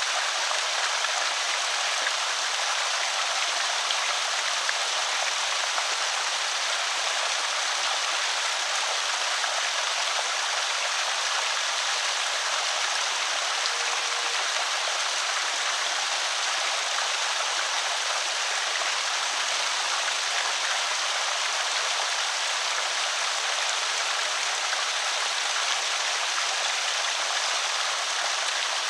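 Water pouring steadily over a small creek spillway, an even splashing rush with no change.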